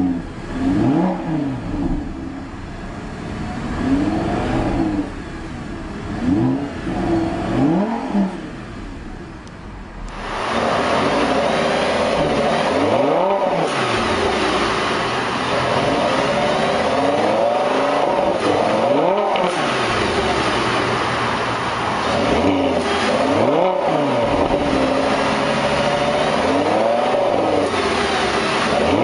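Lamborghini Gallardo Superleggera's 5.2-litre V10 being revved over and over, pitch rising and falling with each rev. There are quick blips at first; about ten seconds in the sound turns suddenly louder and fuller, with longer rises and falls.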